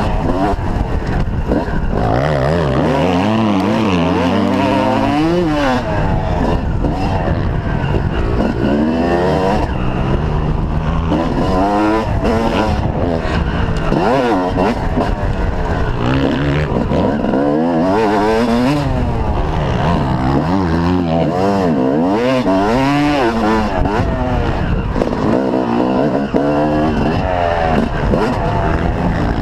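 Yamaha YZ250 two-stroke motocross bike engine revving hard and dropping back over and over, the pitch climbing and falling every second or two as the bike accelerates, shifts and rolls off around the track.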